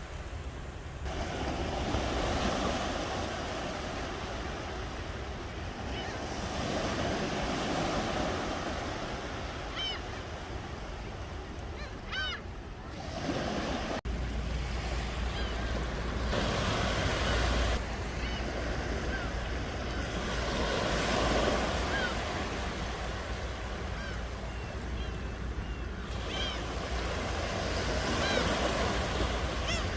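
Ocean surf: waves breaking and washing up the shore, swelling and falling back every few seconds. Brief high chirps come through a few times, and the low rumble underneath changes abruptly about halfway through.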